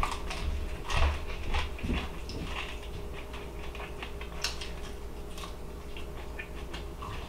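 A person biting and chewing a crispy chicken wing: scattered small crunches and clicks, over a faint steady hum.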